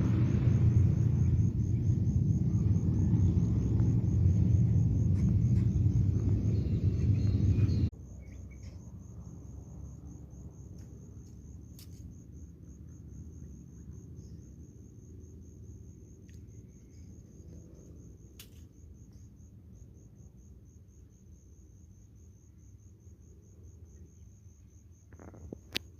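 An insect's steady, fast-pulsing high trill runs throughout, under a loud low rumble that cuts off abruptly about eight seconds in; a few sharp clicks follow.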